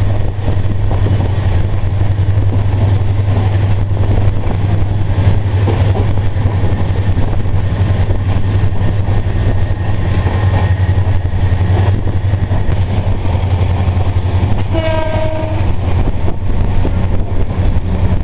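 Train at a station platform: a steady low engine hum throughout, and a train horn blowing once for about a second near the end.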